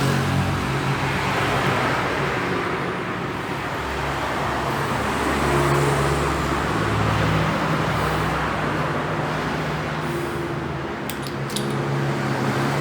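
Steady vehicle-like hum and rumble, with a few short sharp clicks near the end.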